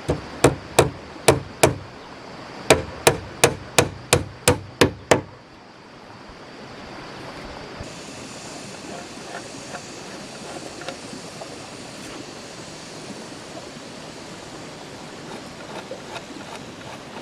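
Hammer striking wood in two quick runs of blows, about five and then about nine, roughly three a second, stopping about five seconds in. After that a steady outdoor hiss is left, with faint ticks.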